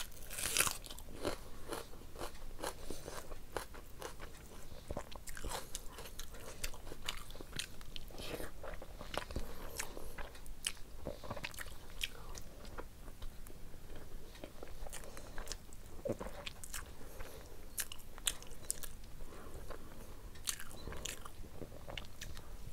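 Close-up eating sounds of a person chewing mouthfuls of curry and rice eaten by hand: wet chewing with many small sharp mouth clicks, with a louder burst about half a second in.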